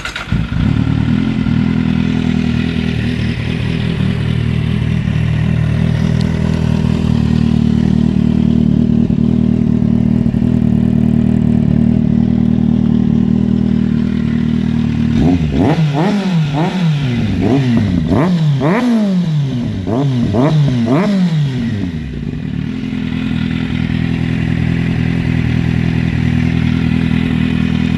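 Kawasaki Z750's inline-four engine breathing through a Mivv Suono aftermarket silencer: it fires up, idles steadily, then about halfway through gets a string of quick throttle blips, each rev rising and dropping straight back, before settling to idle again.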